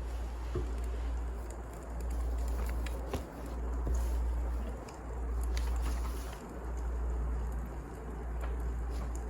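Wood fire crackling, with scattered sharp pops over a low rumble that swells and fades about every two seconds.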